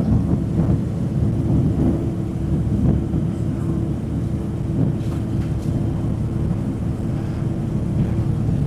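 Ski plane's engine and propeller running steadily, heard from inside the cabin as a loud, even drone with a steady hum.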